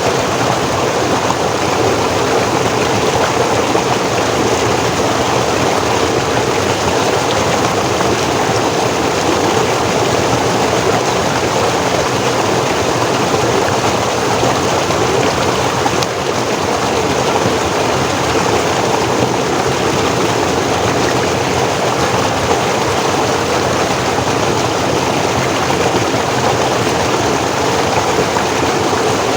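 Forest stream flowing and splashing over rocks, a steady rushing that stays even throughout.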